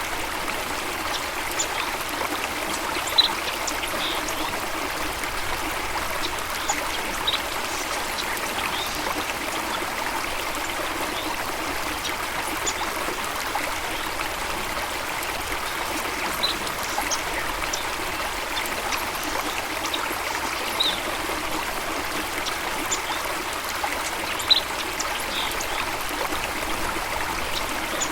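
Running water of a stream or cascade, a steady rushing and trickling. A few short high chirps sound now and then, the loudest about three seconds in and again near the end.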